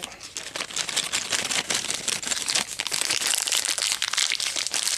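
Plastic packaging crinkling and crackling as it is handled and pulled at, in a struggle to get a stubborn parts package open.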